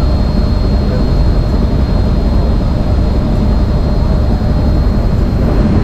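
Steady low rumble of a river cruise boat under way: engine drone mixed with wind rushing over the microphone.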